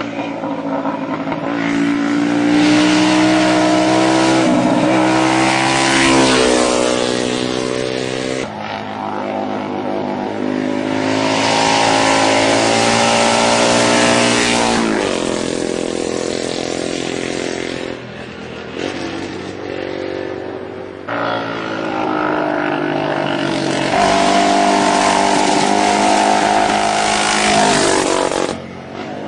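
Vintage racing motorcycles accelerating hard up a hillclimb course, engines revving and climbing in pitch, then dropping at each gear change. The engines come in three loud runs.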